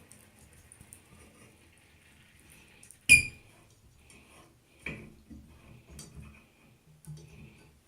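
A sharp metallic clank with a short ring about three seconds in, followed by a duller knock near five seconds and a small click about a second later.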